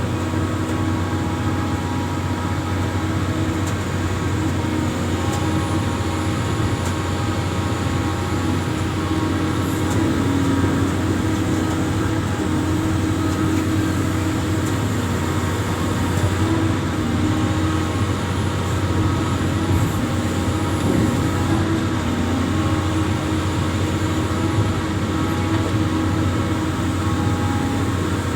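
Amphibious excavator's diesel engine running steadily, a constant low drone with several steady whining tones above it.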